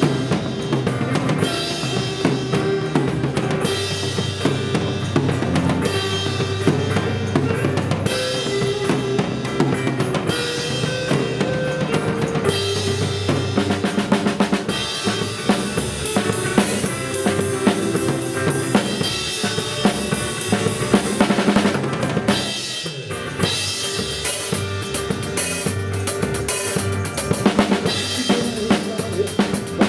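Drum kit played along to a recorded pop-rock song: kick, snare and cymbals keeping a steady beat over the band's backing track, with a short drop-out about two-thirds of the way through.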